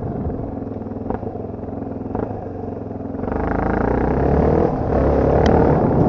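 Dirt bike engine running at part throttle, then opened up and running louder from about three seconds in, with two light knocks in the first couple of seconds.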